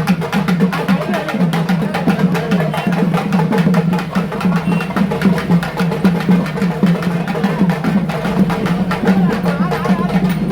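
Loud, fast drumming in a steady, rapid rhythm with an unbroken run of strikes, mixed with voices, as played for the Pettai Thullal dance.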